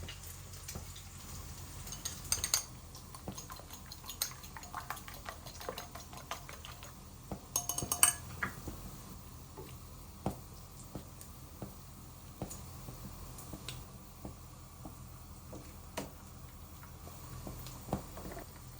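Crockery and cutlery clinking and knocking as dishes are handled, with scattered light taps and two clusters of ringing clinks, about two and a half seconds in and again, loudest, about eight seconds in.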